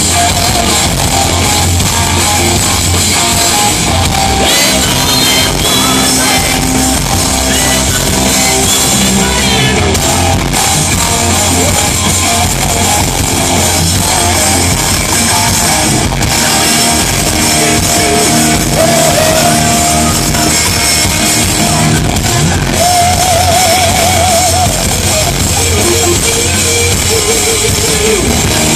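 Live rock band playing loud amplified music at a sound check: electric guitar over a drum kit, with a wavering held note about two-thirds of the way through.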